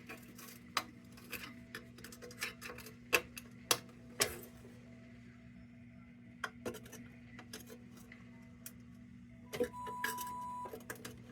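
Light metallic clicks and taps of sheet-metal lantern parts being handled and worked by hand, irregular and scattered, over a low steady hum. A short steady tone sounds for about a second near the end.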